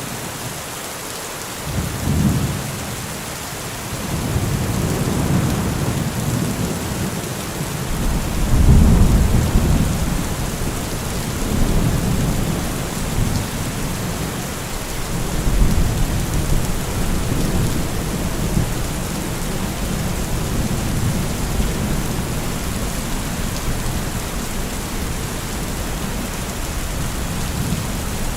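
Steady heavy rain with rolling thunder. A short rumble comes about two seconds in, then longer rumbles swell, loudest a few seconds later, with more peals before settling into a low grumble under the rain.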